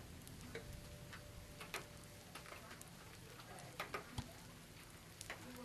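Faint scattered raindrops tapping on a surface: irregular sharp drips of uneven strength, a few a second, over a soft hiss of rain.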